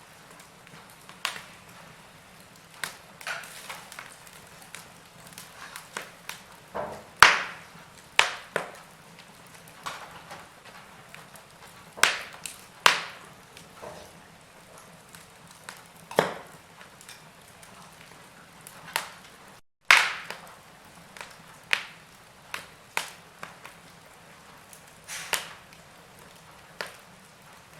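Wood fire crackling: irregular sharp pops and snaps of varying loudness over a faint steady hiss. The sound cuts out completely for a moment about two-thirds of the way through.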